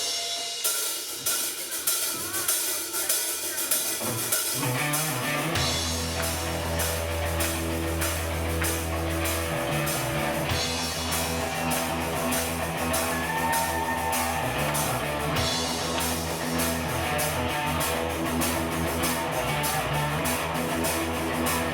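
Rock band playing: a drum kit and guitar, with a bass line coming in about five seconds in and carrying on under a steady drum beat.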